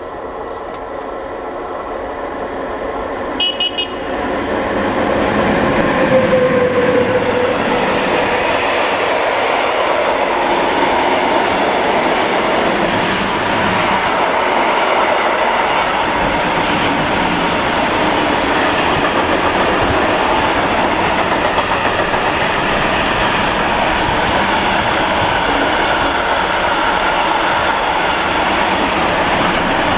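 A train approaching and passing close by, growing louder over the first few seconds, with two short high horn toots about three and a half seconds in; then a long, steady rolling rumble of the cars going by.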